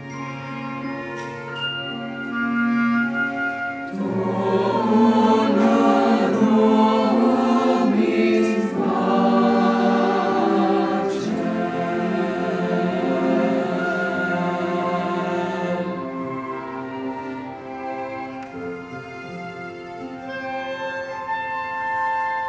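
Choir singing with orchestra, held notes with vibrato; it swells about four seconds in and grows softer in the last few seconds.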